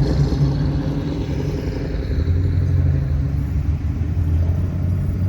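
Classic cars driving slowly past, engines rumbling; one car's note fades and a deeper-pitched engine comes in about two seconds in.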